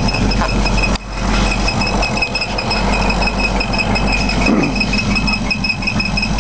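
Chevrolet 350 V8 of a 1982 C-10 pickup idling steadily, with a steady high-pitched whine alongside and a brief dip about a second in.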